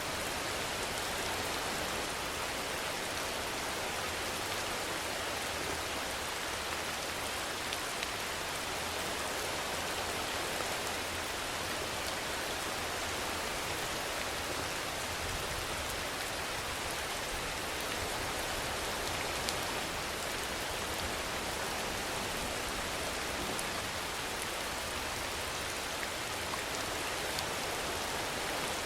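Steady rainfall, an even hiss of rain with a few faint drop ticks and no rise or fall in level.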